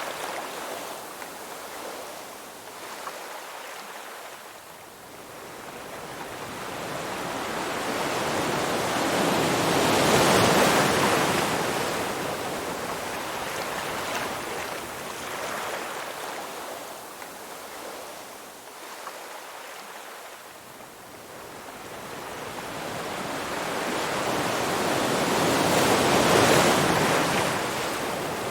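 Ocean waves washing in: the surf swells to a loud peak about a third of the way in, ebbs away, then builds to a second surge near the end.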